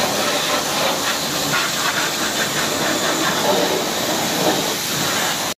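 Pressure-washer water jet spraying a mud-covered two-wheeler, blasting the mud off in a steady loud hiss that cuts off suddenly near the end.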